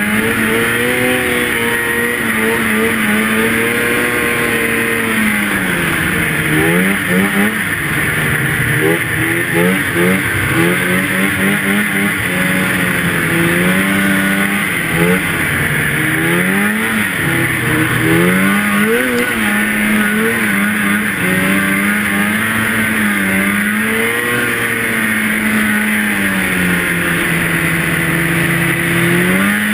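Two-stroke snowmobile engine running loud, its pitch rising and falling again and again as the throttle is opened and eased, with a run of quick short revs about a third of the way in.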